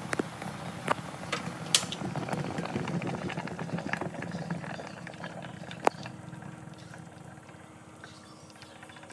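Water boiling in a steamer, a steady bubbling hiss with a few sharp clicks of utensils or lid on metal; it grows quieter over the last few seconds.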